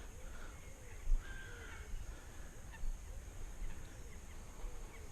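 Faint bird calls, a few short cries with one longer call a little over a second in, over a low rumble.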